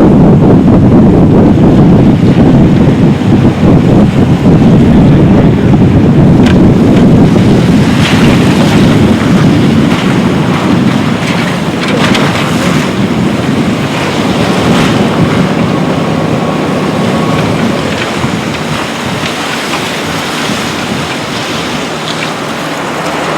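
CH-47 Chinook helicopter running, its rotor noise mixed with heavy wind rumble on the microphone, gradually getting quieter over the second half.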